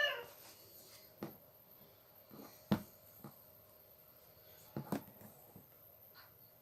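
A few short, sharp clicks and knocks from hand tools and grinder parts being handled and fitted while an angle grinder is put back together; the loudest comes nearly three seconds in, and two more come close together near five seconds.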